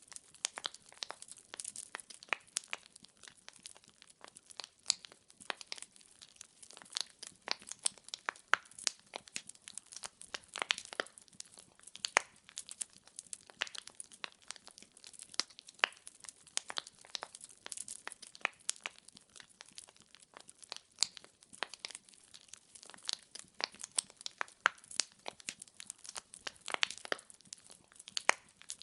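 Wood fire in a fireplace crackling and popping steadily, with many sharp irregular snaps over a faint hiss.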